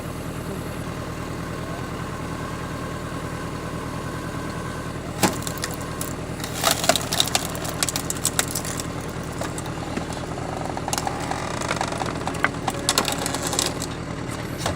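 Old Massey Ferguson 35 tractor engine running steadily, driving a log splitter whose ram slowly forces a log through a six-way star knife. From about five seconds in come bursts of cracking and splintering snaps as the wood splits, spread out because the tractor supplies only about 10 litres a minute of hydraulic oil.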